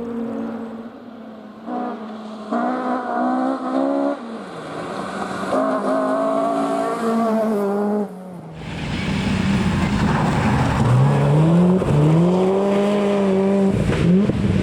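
Rally car on a stage, its engine climbing in pitch and breaking off several times as it changes up through the gears while approaching. About eight seconds in it comes close and gets much louder, and the engine note dips and then climbs again as the car passes.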